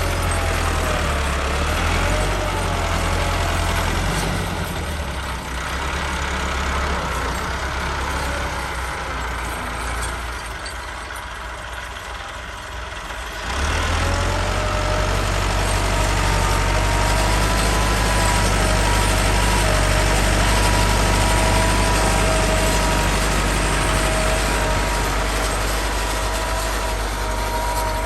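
Diesel tractor engine running, with a steady whine above the engine note. The engine is quieter for a stretch, then picks up sharply about thirteen and a half seconds in and runs louder.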